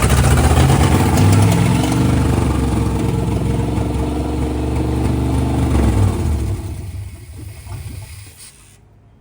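1988 GMC 1500's 5.0-litre V8 running, then fading out from about six seconds in.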